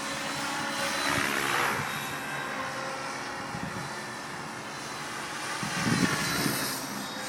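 Radio-controlled helicopter's motor and rotor whirring steadily, swelling louder about a second in and again near the end.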